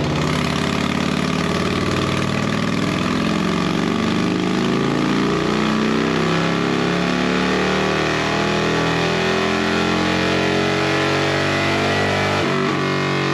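Harley-Davidson Road King's 103 High Output V-twin running steadily on a dyno while warming up to operating temperature, breathing through an Ultima 2-into-1 exhaust. The engine sound shifts abruptly near the end.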